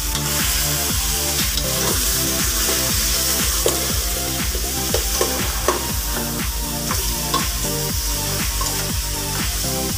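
Chicken pieces sizzling as they brown in an aluminium pot, with a metal spoon stirring and clinking against the pot a few times in the middle. Background music with a steady beat runs underneath.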